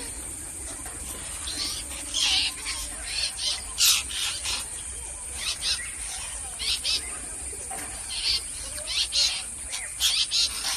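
Parrots calling in the wild: short, high calls, often two or three in quick succession, at irregular intervals. A steady high insect drone runs behind them.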